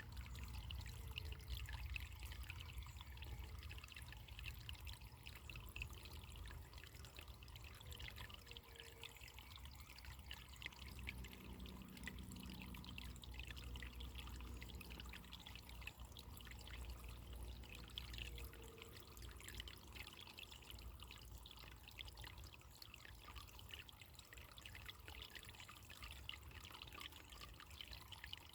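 Faint running water trickling and splashing steadily, with a low rumble underneath.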